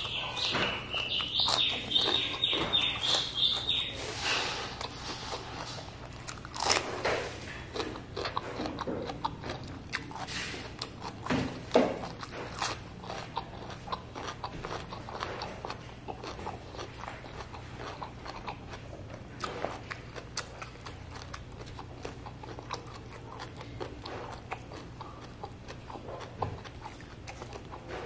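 Close-up mouth sounds of a person biting and chewing crispy fried chicken skin: a quick string of crunches that is loudest in the first dozen seconds and thins to softer, wetter chewing afterwards. A high steady tone sounds through the first four seconds.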